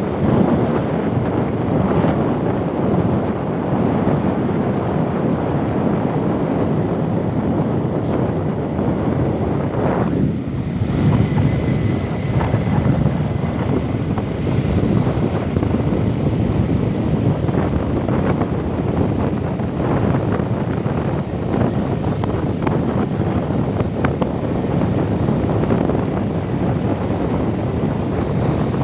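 Steady wind rumbling on the microphone, with a few faint clicks.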